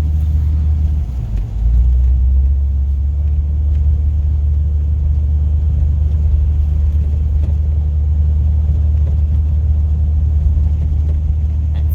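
Steady low rumble of a 1998 Jeep Cherokee on the move, dipping briefly about a second in and then picking back up.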